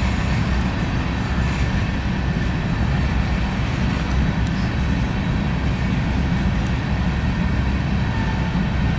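Norfolk Southern mixed-freight manifest train's cars rolling past on the rails, a steady low rumble that holds even throughout.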